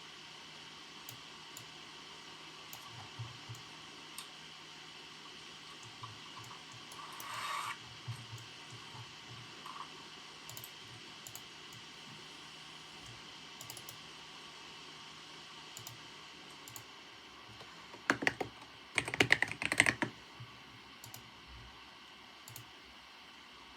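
Computer keyboard typing: scattered single keystrokes over a faint steady hiss, then a quick burst of rapid typing about eighteen seconds in, the loudest part. A brief soft swish sounds about seven seconds in.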